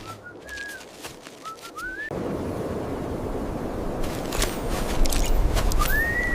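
Cartoon sound effects: short chirping whistles that glide up and down, then a dense rushing noise cuts in about two seconds in and builds, with a few sharp clicks and one rising-then-falling whistle near the end.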